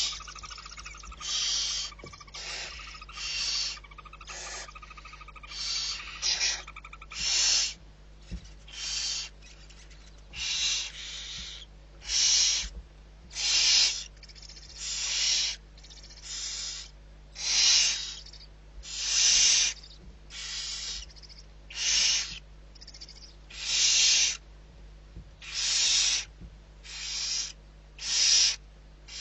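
Barn owl giving a long series of harsh hissing calls, each about half a second long and coming roughly every one to two seconds. A faint steady whistle-like tone runs under the first several seconds, over a low constant hum.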